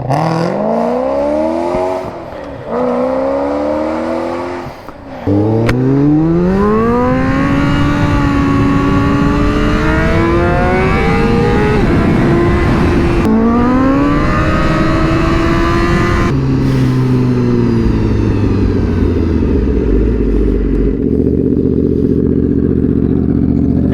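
Sportbike engine accelerating hard up through the gears, the revs climbing and dropping back at each upshift several times, then settling to a steadier note over the last several seconds.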